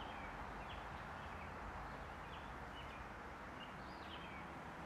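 Small birds chirping: short, high calls several times a second apart over a steady hiss of woodland ambience.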